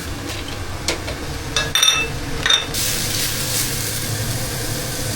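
Several sharp, ringing clinks of a metal utensil against cookware about one to two and a half seconds in, then a steady hiss of food frying in the pan, over a steady low hum.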